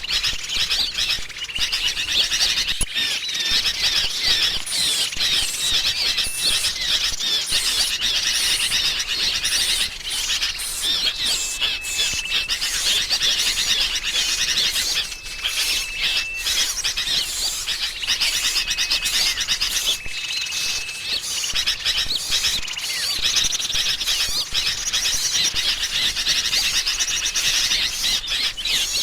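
Bird-lure recording: a dense, busy chorus of agitated sooty-headed bulbul calls mixed with chirping small songbirds. Thin steady whistles about a second long recur every few seconds.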